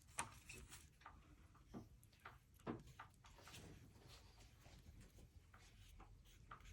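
Near silence with a few faint, soft taps and light scratches of a paintbrush working on watercolour paper.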